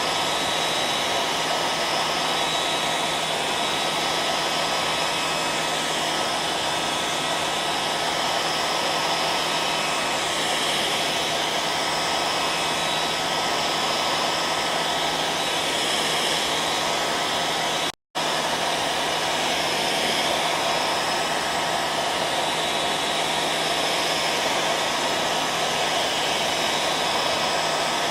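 Hair dryer running steadily: a continuous blowing rush over a steady motor hum. About two-thirds of the way through it cuts out for a split second and resumes at once.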